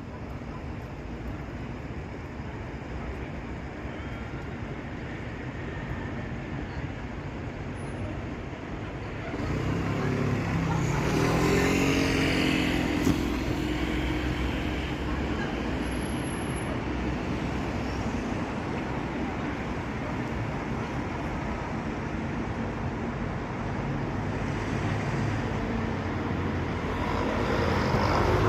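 Road traffic: a steady background of passing vehicles, with a louder vehicle going by about ten seconds in, its engine pitch rising and falling, and another approaching near the end.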